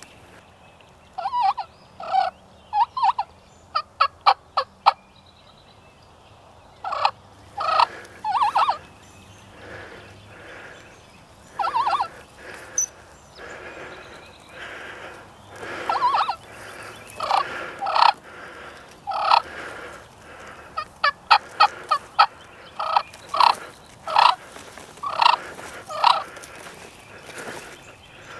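Wild turkeys gobbling again and again, loud and close, with shorter calls and a quick run of sharp clucks between the gobbles.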